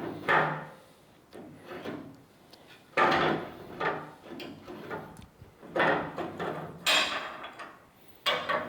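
Metal suspension parts and hand tools being handled on a workbench: a series of about five knocks and clatters with quieter rubbing and scraping between them.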